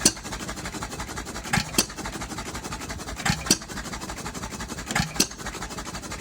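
Novo hit-and-miss engine running: a pair of sharp bangs about every second and a half to two seconds, with a rapid, even ticking in between. It is the engine's first run after being freed from seizure, running smoky.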